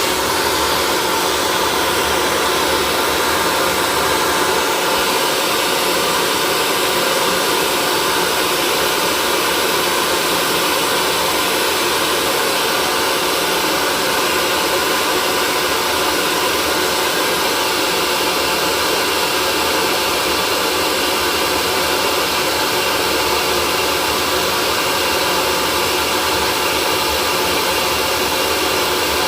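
Electric hair dryer running steadily, an even whoosh of blown air with a faint steady motor hum, unchanging throughout.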